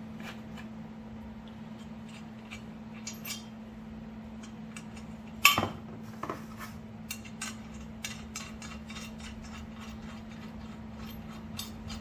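Metal hardware being handled while a bolt is fitted through a leaf-spring shackle: scattered clinks, one sharp metallic clank about five and a half seconds in, then a run of small irregular clicks, over a steady low hum.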